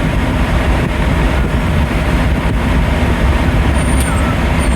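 Semi truck's diesel engine idling with a steady, loud rumble. There are a couple of faint short squeaks about four seconds in.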